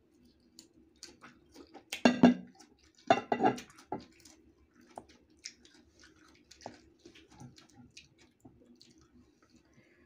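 Close-up chewing of crisp green mango slices, with two louder bursts about two and three seconds in, then many small irregular crunches and mouth clicks.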